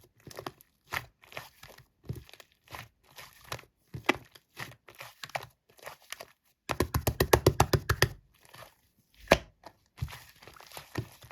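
Slime being squished and pressed by hand, giving scattered short sticky pops and crackles. A fast run of wet pops comes a little over halfway through, and one loud single pop follows soon after.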